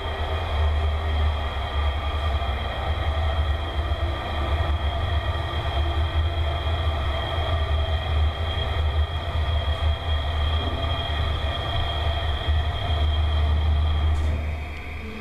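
1967 Schmidt freight elevator running during a ride: a loud, steady low rumble from the drive with a steady high whine over it, easing off near the end.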